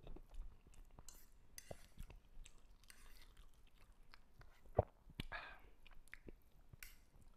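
Quiet chewing of a mouthful of fried instant noodles, with light clicks and scrapes of a fork against the plate as noodles are twirled up; one sharper tap a little before five seconds in.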